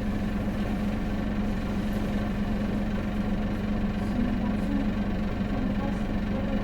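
Hino Blue Ribbon City city bus's diesel engine running with a steady, unchanging note, heard from inside the passenger cabin.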